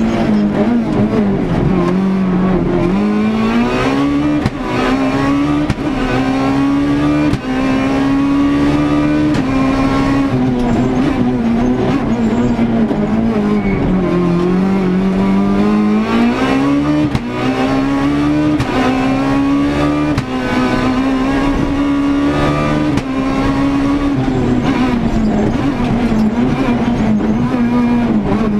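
Renault Clio S1600 rally car's 1.6-litre naturally aspirated four-cylinder engine at full racing effort, heard from inside the car. The revs climb and drop again and again, with short cuts in the sound at gear changes and deeper falls when braking for corners.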